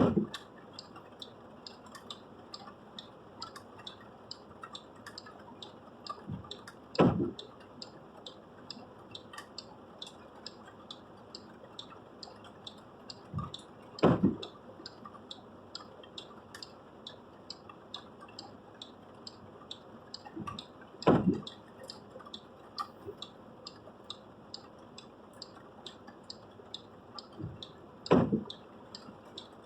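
Windscreen wipers making a sweep about every seven seconds, five times in all, with light, quick ticking between the sweeps.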